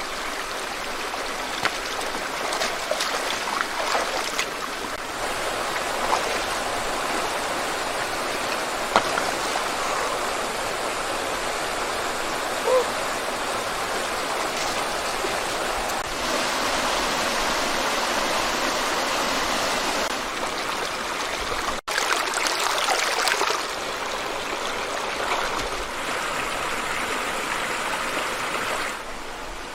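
Stream water flowing steadily, with a few short splashes or knocks.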